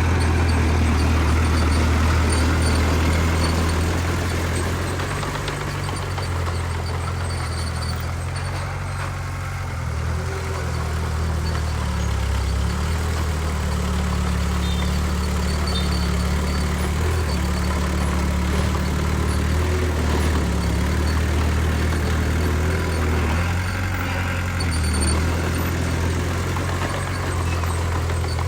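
Heavy diesel earthmoving engine running steadily with a low rumble, its pitch and load shifting a little.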